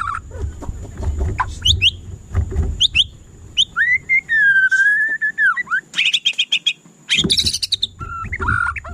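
White-rumped shama singing a varied whistled song: quick sweeping notes, one long held whistle near the middle, then a fast run of repeated notes. A low rumble comes and goes underneath.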